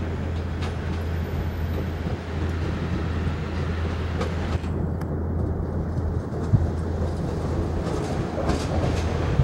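Joshin Electric Railway 250 series electric train rolling slowly in over the rails and points, a steady low rumble of wheels and running gear with one sharp click about two-thirds of the way through.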